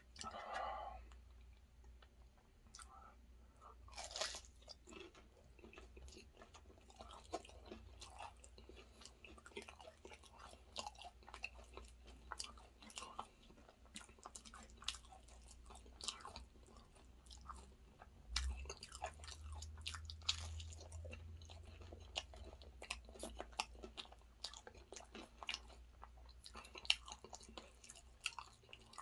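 A person biting into and chewing a vegetable samosa: many quick, crisp crunches of the fried pastry mixed with chewing sounds.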